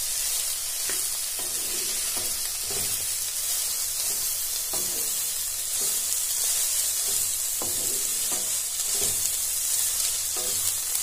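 Soaked soya chunks sizzling as they fry in hot mustard oil in a kadhai, with a steady hiss throughout. A spatula scrapes and knocks against the pan at irregular moments as the chunks are stirred.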